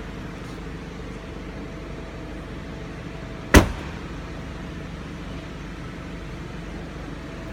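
2013 Hyundai Santa Fe Sport's turbocharged 2.0-litre four-cylinder engine idling steadily, with a single sharp knock about three and a half seconds in.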